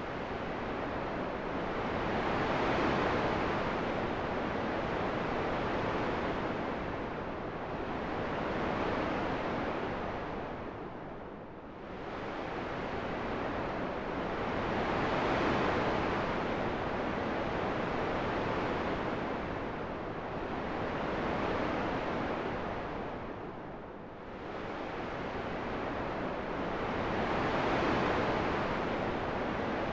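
Relaxation wind sound: a steady rushing noise that rises and falls in slow swells every several seconds, with no other sounds over it.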